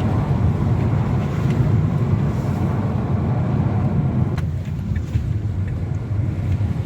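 Steady rushing roar of a waterfall, heavy in the low range; its upper hiss thins a little about four and a half seconds in.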